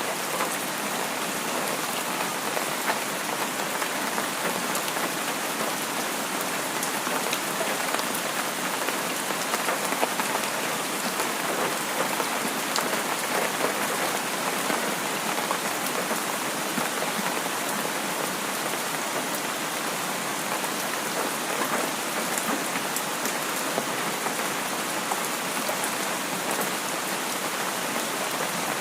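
Steady rain falling on a surface, a dense even patter of many drops with no let-up.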